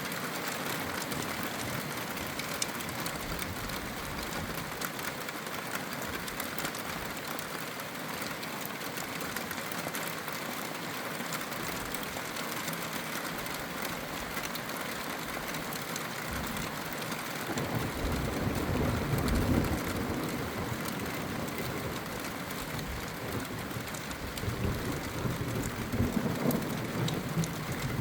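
Steady rain falling, with thunder rumbling low for a few seconds past the middle and again near the end.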